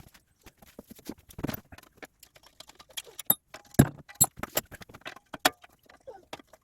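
Hand tools and metal motorcycle parts clinking and clanking in quick, irregular knocks, a few ringing briefly, as the bike is dismantled.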